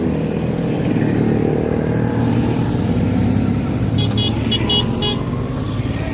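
Classic motor scooters and motorcycles running on the road, a steady engine drone. About four seconds in, a horn gives five quick short beeps.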